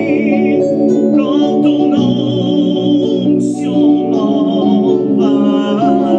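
A hymn sung with a wavering vibrato over sustained instrumental accompaniment.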